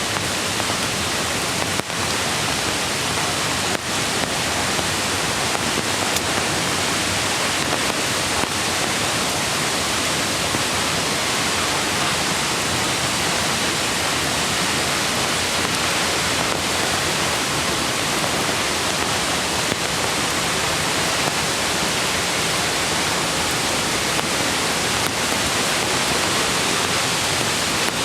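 Mountain stream water rushing over rocks, a steady, loud, unbroken rush.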